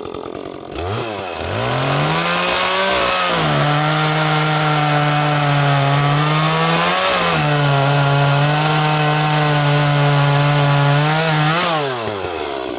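Small 30cc Echo two-stroke chainsaw revving up and cutting through a log. The engine pitch drops and holds steady under load in two long stretches, rising briefly between them about seven seconds in, then revs free and falls away near the end.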